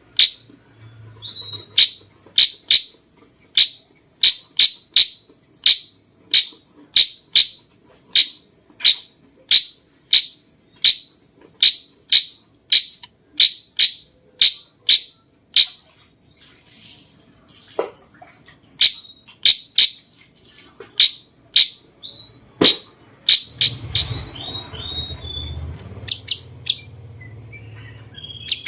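Cucak cungkok songbird calling: a long run of sharp, high, downward-sweeping notes, about two a second, over a thin steady whistle. Near the end come a few quicker chattering notes.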